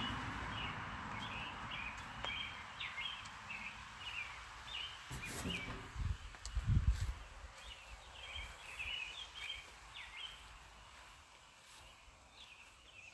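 Birds chirping, many short calls in quick succession that thin out towards the end, with a brief low thump about six and a half seconds in.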